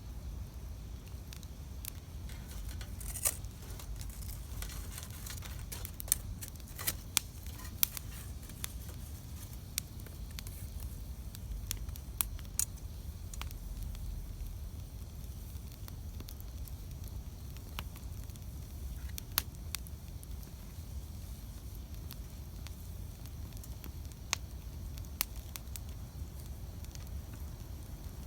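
Wood campfire burning: irregular sharp crackles and pops from the burning wood over a low steady rumble, with a small flurry of pops about six to eight seconds in.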